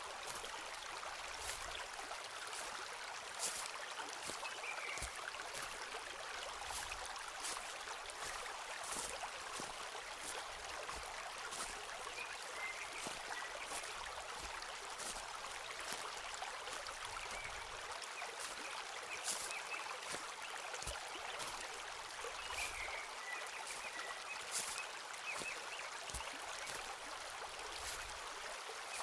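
Footsteps walking through a forest, with irregular crunches and soft thuds, over the steady rush of a stream. A few faint bird chirps come now and then.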